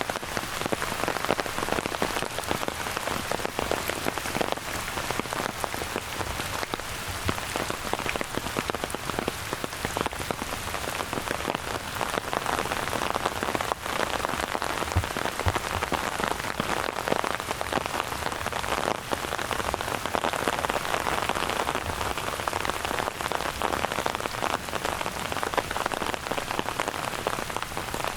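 Steady rain falling, with a dense, even spatter of close raindrop hits.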